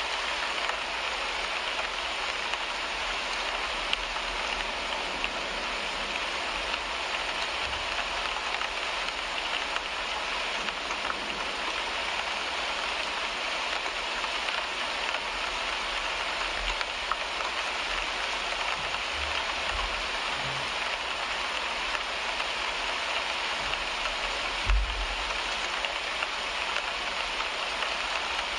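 Steady rain falling on a car windshield, an even hiss of drops with no let-up. A brief low thump comes near the end.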